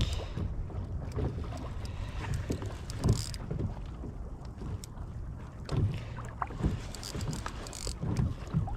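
Wind buffeting the microphone on a kayak at sea, with water and gear knocking against the hull. A few sharper knocks come about three, six and eight seconds in.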